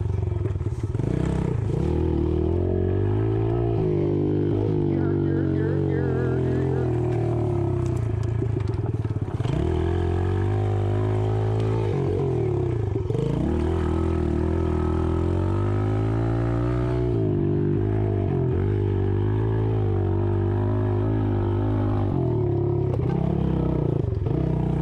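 Dirt bike engine revving hard as it is ridden round a motocross track, its pitch climbing and falling again and again with throttle and gear changes, with several short drops off the throttle.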